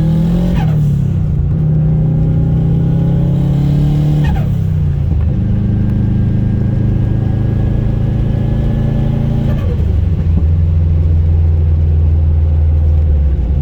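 Turbocharged 2006 Subaru WRX STI's flat-four engine pulling steadily under way. Three times, about half a second in, around four seconds and near ten seconds, the throttle lifts and the TiAL blow-off valve vents with a quick falling whoosh, after which the engine settles at a new pitch.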